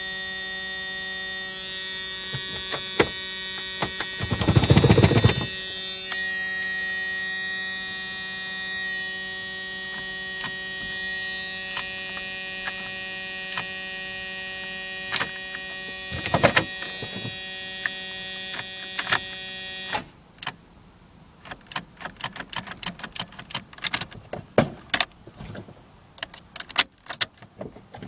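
Steady electrical hum and whine from a 1994 Jeep Cherokee's electrics, with a loud noisy burst about five seconds in and a short one about sixteen seconds in. The hum cuts off suddenly about twenty seconds in and scattered faint clicks follow: the no-start fault in which one click is followed by the whole dash going dead.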